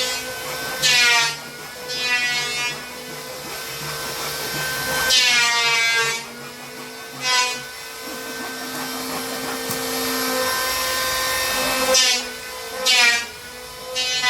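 Electric power saw cutting through plywood: a steady motor whine, with its pitch repeatedly sagging and recovering in loud surges as the blade bites into the wood.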